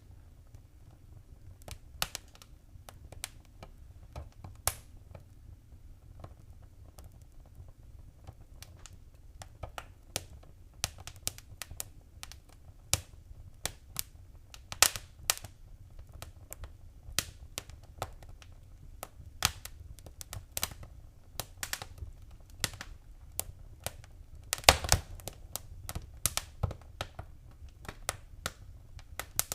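Wood fire crackling, with irregular sharp pops and snaps over a steady low rumble. The pops are sparse at first and come more often from about a third of the way in, with a quick burst of them near the end.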